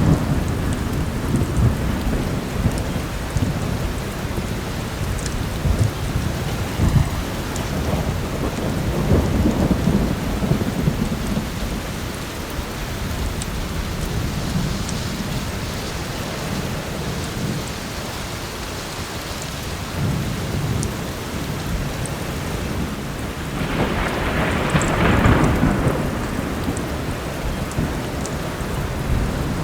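Steady heavy rain with thunder rumbling low and continuously. A louder, brighter thunder peal comes about three-quarters of the way through. Faint scattered crackles from a wood fire sit in the mix.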